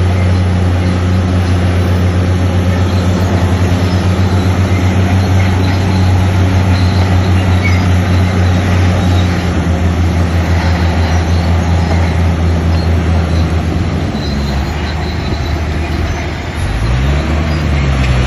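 Heavy diesel engine of a construction machine running under load with a steady, low, throbbing drone. Near the end the engine note dips and then rises again as the revs change.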